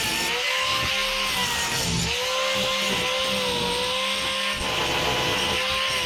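Handheld power tool running against the steel boat hull, a steady gritty hiss over a motor whine that sags and recovers several times as it is loaded.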